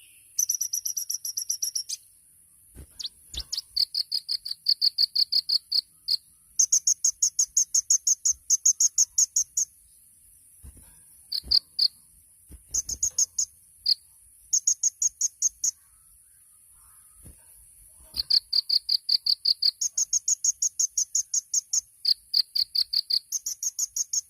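Kolibri ninja, a sunbird, singing: phrases of rapidly repeated sharp high notes, about six a second, each phrase lasting a second or two with short pauses between. A steady high-pitched hiss or insect-like trill runs underneath.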